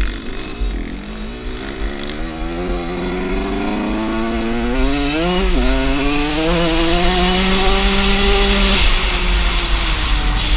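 Off-road motorcycle engine pulling hard, its pitch climbing for about five seconds, dropping briefly as it shifts up, then climbing again and holding before the revs fall away near the end.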